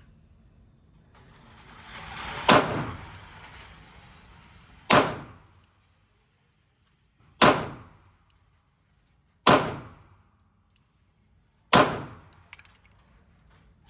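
Five shots from a Glock 23 pistol in .40 S&W, fired one at a time about two to two and a half seconds apart. Each shot is a sharp crack with a short echoing tail in the range's enclosed lane.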